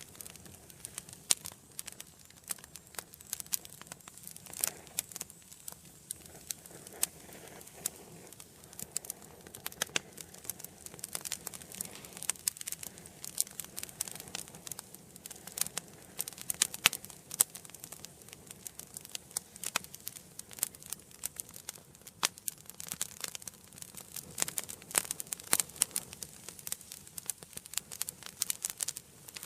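Wood fire burning in a fireplace: irregular sharp crackles and pops over a faint steady hiss.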